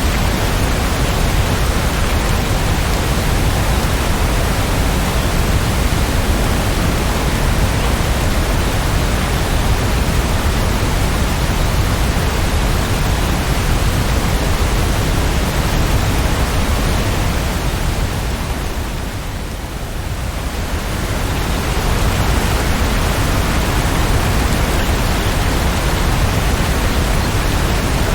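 Steady heavy rainfall, an even hiss with no separate drops or thunder; it softens briefly about two-thirds of the way through, then returns to full strength.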